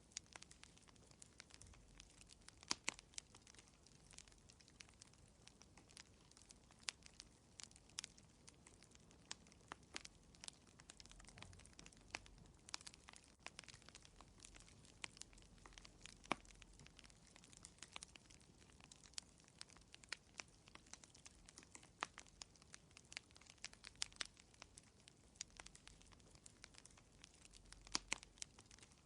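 Wood fire crackling in a fireplace: irregular sharp pops and snaps over a quiet, steady background.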